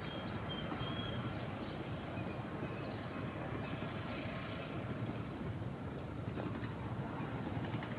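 A steady low rumbling noise, with a few faint high chirps in the first second or so.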